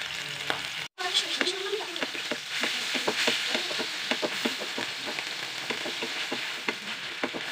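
Medan dried anchovies frying in hot oil in a non-stick pan, sizzling steadily while a wooden spatula stirs them, with many small clicks and scrapes of the spatula against the pan. The sound cuts out for an instant about a second in.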